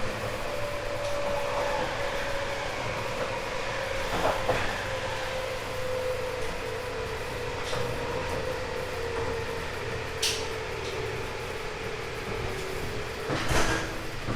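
Running sound inside a JR 189 series motor car: the whine of its MT54 traction motors and gearing slowly falls in pitch as the train slows, over a steady rolling rumble. A few sharp knocks from the wheels on the track, the loudest near the end.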